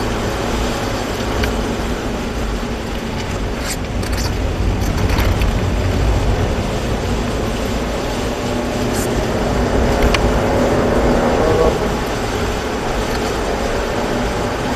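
Mazda 3's 1.6-litre engine running under acceleration out of a corner, with steady road noise. About ten seconds in, the engine note climbs and then drops suddenly.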